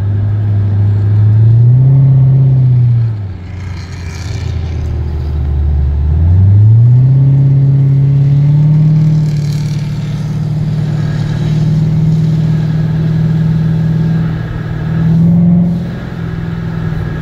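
Chevrolet Corvette V8 heard from inside the cabin under acceleration. The engine pitch climbs, falls back about three seconds in and stays low for a few seconds, then climbs again and holds steady. It rises briefly once more and drops off near the end.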